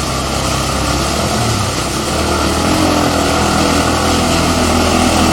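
An engine running steadily under a broad hiss, slowly growing louder.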